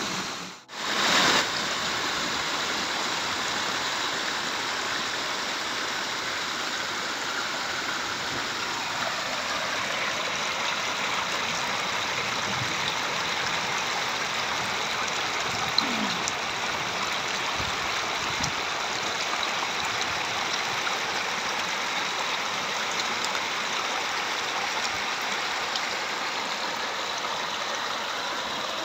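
Steady rushing of water from rain and runoff, an even hiss with no pauses, briefly cut out and louder just after the start.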